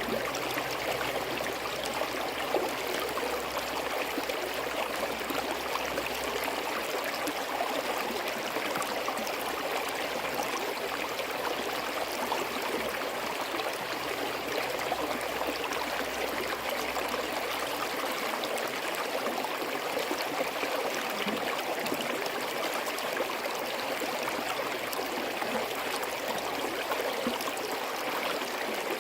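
Forest stream flowing steadily over rocks, a continuous babble of running water with fine trickling and gurgling detail.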